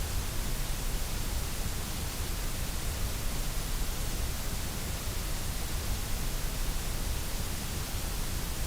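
Steady white noise: an even, unchanging hiss that does not vary.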